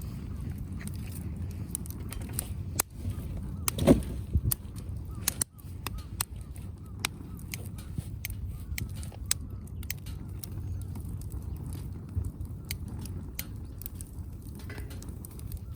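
Wood fire crackling in a wood-grill fire stand: scattered sharp pops and snaps over a low steady rumble, with one louder thud about four seconds in.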